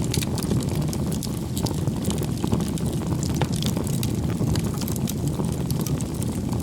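Bonfire burning: a steady low rush of flames with many sharp crackles and pops from the burning wood.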